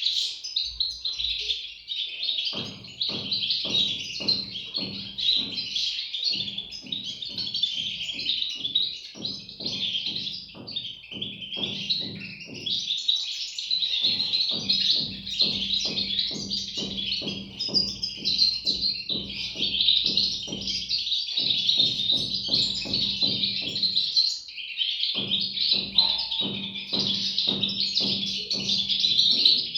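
European goldfinch chicks chirping in a dense, unbroken chorus of high twittering. Underneath, in stretches, a rapid train of soft low pulses with a faint hum comes and goes.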